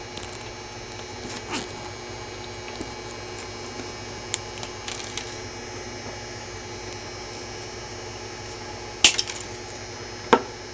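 Small metal hand tools working thin jewellery wire: a few light metallic clicks, then a sharper snap about nine seconds in and another near the end, over a steady faint hum.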